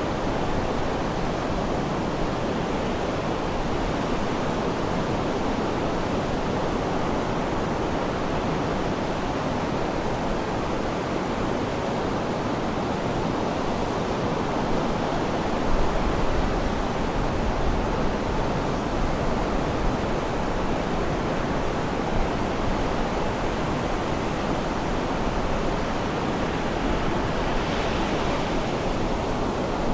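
Sea surf washing steadily, an even rush of water noise with a few louder low swells around the middle.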